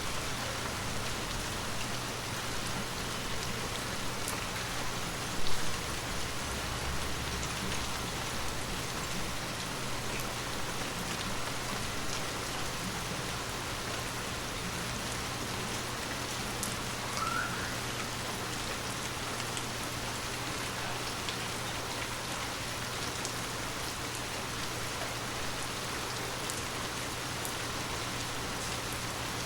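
Heavy rain falling steadily, with scattered sharp drips landing and a steady low hum beneath. One brief louder knock comes about five seconds in.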